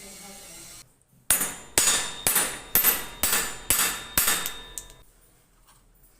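Hammer striking metal in an even rhythm: seven sharp, ringing blows about two a second, then a lighter eighth tap.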